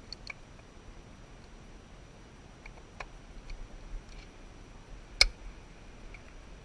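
A few scattered light clicks and taps of tools and parts being handled during a coil-pack swap, with one sharper click about five seconds in, over a faint low hum.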